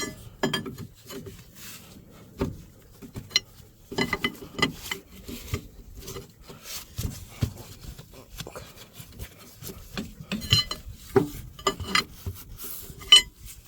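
Irregular metallic clinks, taps and scraping of a wrench working a hydraulic hose fitting loose on a skid steer's drive motor, with a sharp clink near the end.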